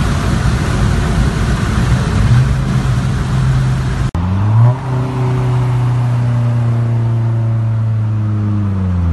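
Car engine at speed with road noise, heard from inside a moving car during a street race. About four seconds in the sound breaks off abruptly. Then the engine note climbs briefly, holds steady, and starts to drop near the end.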